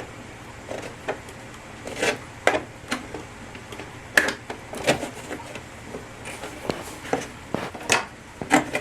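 An RC car's body being lined up and pressed onto its chassis: about ten light, irregular clicks and knocks of hard plastic parts being handled.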